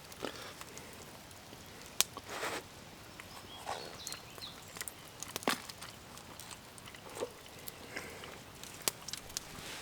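Quiet campfire with a few sharp pops from the burning wood, several seconds apart, and soft rustling and handling sounds between them.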